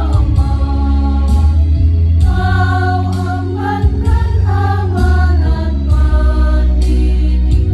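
Adult choir singing, holding long notes that change every half second or so over a steady low bass.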